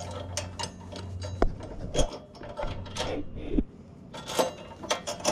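Tillotson 212 engine on a Coleman CT100U mini bike idling low, fading out about a second and a half in, with a run of sharp mechanical clicks and knocks spread through the rest.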